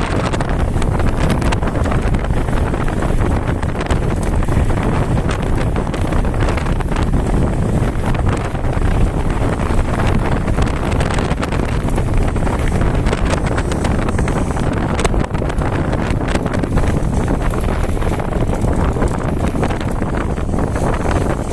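Wind buffeting the microphone of a camera riding on a mountain bike going downhill, with many small clicks and knocks from the bike rattling over rough ground.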